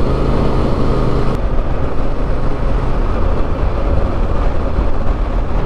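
Motorcycle riding at speed: a steady engine hum under loud wind and road noise, the engine's hum fading out about a second in, leaving mostly wind rush and low rumble.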